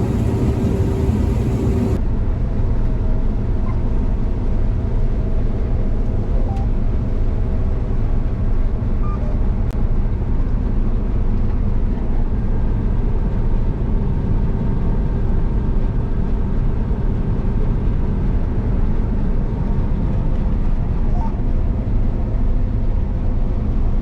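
Combine harvester running while harvesting soybeans, heard from inside the cab: a steady low drone with a few steady tones over it.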